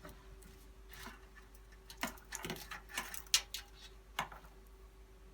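Scattered small clicks and taps of cable connectors and leads being handled and plugged in inside a PC case, busiest a couple of seconds in, over a faint steady hum.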